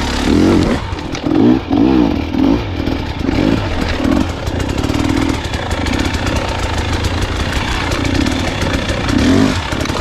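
Dirt bike engine revving up and down again and again as it is ridden on a trail, the throttle opened and closed in quick rises and falls.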